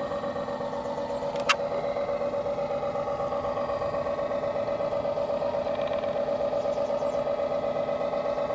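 RC model tugboat running: a steady mechanical whine with a fast, even pulsing, and one sharp click about a second and a half in.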